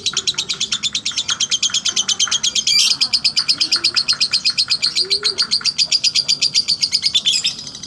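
Lovebird singing its long unbroken ngekek chatter in the 'slow ngekek' style: a fast, even run of shrill chirps, about ten a second, that breaks off near the end.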